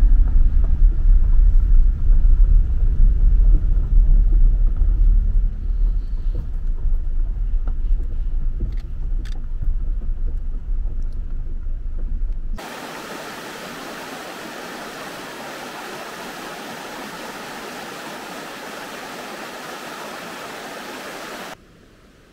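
Low rumble of a vehicle on the move for about twelve seconds. It cuts off suddenly and gives way to a steady, even hiss, which stops abruptly near the end.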